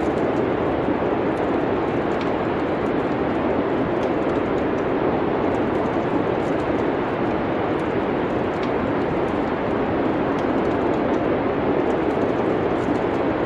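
Steady wind, with faint, scattered crackles of a wood fire in a fireplace.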